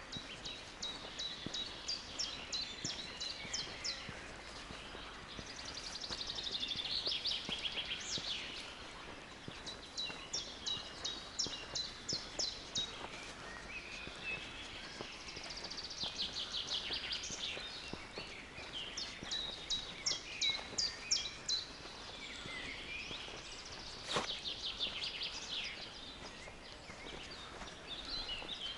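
Songbirds singing: phrases of rapid high notes repeat every few seconds, some falling away in a trill, over a steady outdoor hiss. There is a single sharp click about two-thirds of the way through.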